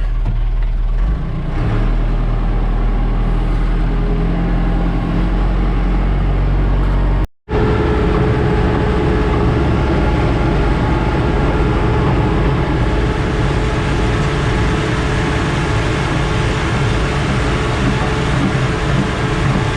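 JCB backhoe's diesel engine running steadily as the machine is driven along. The sound drops out abruptly for a moment about seven seconds in, then the engine carries on just as steadily.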